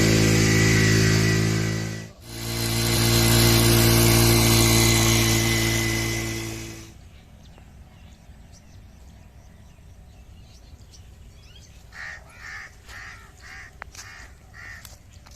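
Honda CD 70's small single-cylinder four-stroke engine running steadily while driving a tubewell pump. It dips out briefly about two seconds in, comes back, and fades away about seven seconds in. What is left is a quiet outdoor background with a few bird chirps near the end.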